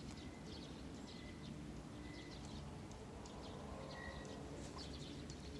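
Small birds chirping and calling: many short high chirps and a few thin held whistles, faint. A faint low steady hum comes in after about a second and a half.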